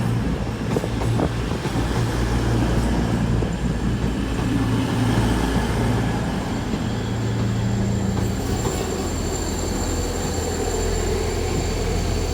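Diesel multiple-unit engines running steadily, a low throbbing hum. A faint high whine sounds over it for a few seconds in the middle.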